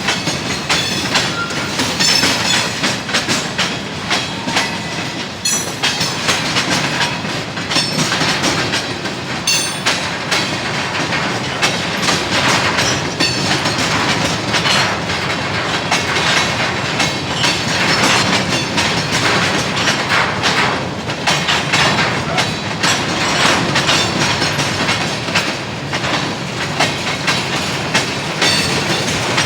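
CSX freight train cars rolling past, their wheels clicking and clattering steadily over the rail joints.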